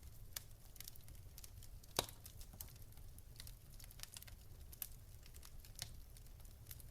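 Fire crackling faintly with irregular small pops, one sharper pop about two seconds in, over a low steady rumble.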